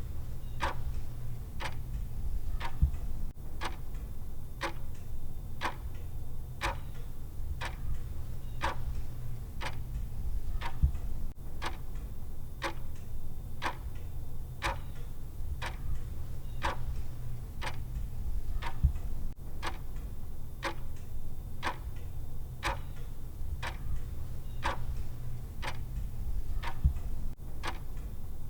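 Countdown timer's clock tick sound: evenly spaced ticks at about one a second, over a steady low hum.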